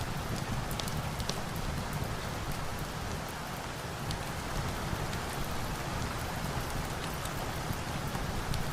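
Steady rain falling, a dense even patter, with scattered sharp clicks over it.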